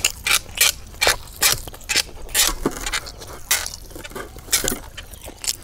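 Close-up wet smacking and chewing of a person eating tender cooked beef-head meat, with sharp mouth clicks about two or three times a second.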